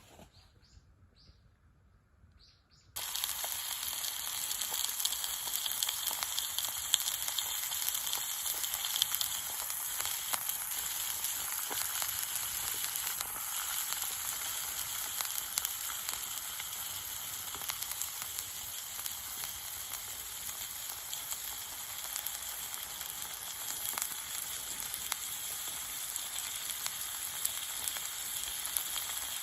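Steak sizzling in a hot frying pan, a steady dense hiss with fine crackles that starts suddenly about three seconds in, after near silence.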